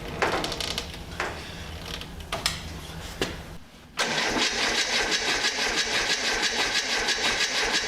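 A few light clicks, then about four seconds in a Formula Ford race car's starter motor cranks the engine steadily without it firing: the fuel pipe is off the carburettor, so the engine turns over unfuelled to check whether the mechanical fuel pump delivers fuel, and none comes.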